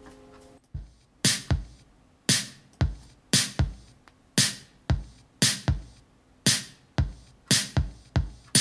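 Drum-machine beat from recorded music played over hi-fi loudspeakers, starting about a second in: a sharp snare or clap hit about once a second with kick-drum thumps between. Before it, the tail of the previous song fades out.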